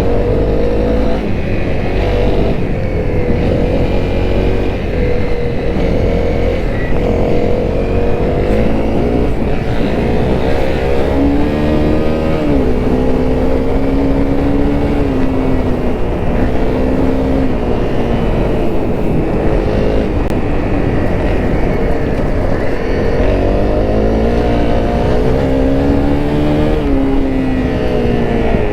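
Honda CRF250L's single-cylinder four-stroke engine running while ridden. Its note climbs and falls several times, rising about a third of the way in and again near the end, and holds steady in between.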